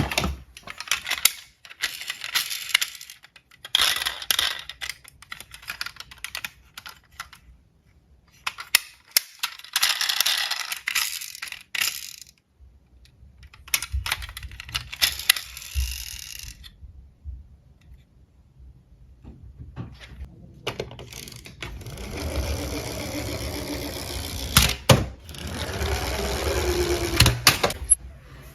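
Small diecast toy cars clicking and clattering against each other and a hard surface, with stretches of wheels rolling and rattling down a slope.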